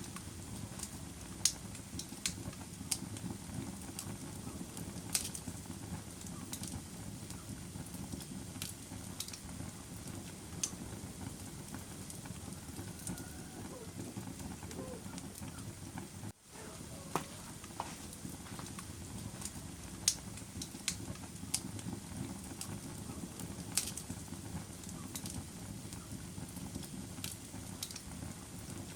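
Wood fire in a fireplace crackling: irregular sharp pops and snaps over a steady low rush of burning flames. The sound cuts out for an instant about halfway, then fades back in.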